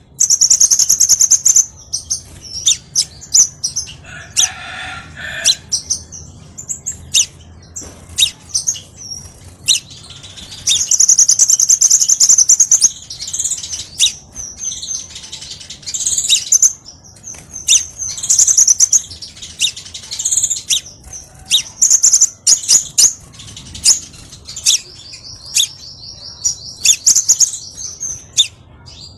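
Crimson sunbird (sepah raja) song: rapid high-pitched chirps and fast twittering trills in repeated bursts, played as a lure and training call. It includes a lower call about four seconds in and a fast, even trill near the end.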